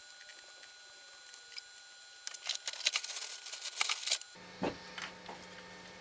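Quick run of small sharp clicks and clinks, like metal parts and hand tools being handled during a steering rack teardown, densest in the middle; about four seconds in the background changes abruptly to a steady low hum with a few more clicks.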